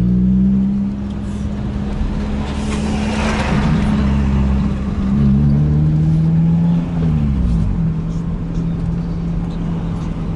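VAZ-2114 car engine running as the car drives off in traffic, its note shifting down and back up between about five and seven seconds in. A brief rush of noise comes about three seconds in.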